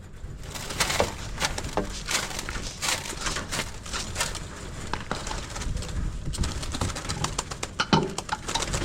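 A flock of birds crowding and pecking at freshly scattered feed: a busy, uneven patter of pecks, scuffles and wing flaps, with a few short calls.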